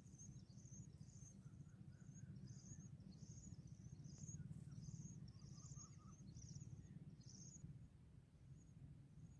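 Faint outdoor ambience: small birds chirping in short, high, irregular calls over a low steady rumble, the chirps thinning out after about seven and a half seconds.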